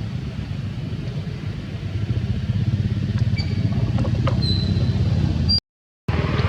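Steady low engine rumble, with a few short high squeaks over it; the sound cuts out abruptly for about half a second near the end.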